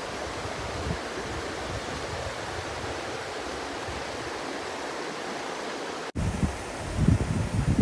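Steady rushing water noise, then, after a sudden cut about six seconds in, gusts of wind buffeting the microphone with an uneven low rumble.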